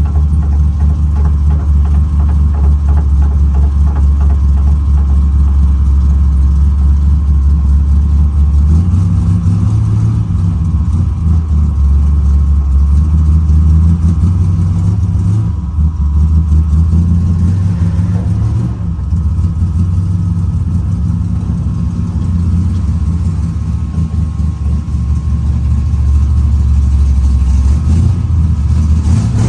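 Car engine running at low revs, idling with small changes in engine speed.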